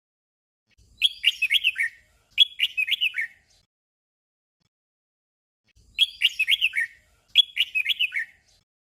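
Red-whiskered bulbul singing a short, doubled song: two quick warbled phrases of falling notes back to back, and about five seconds later the same pair again.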